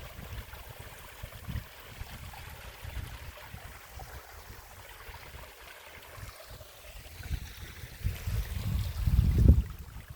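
Running water like a stream, a steady rushing hiss, with low rumbling surges that get louder about eight seconds in.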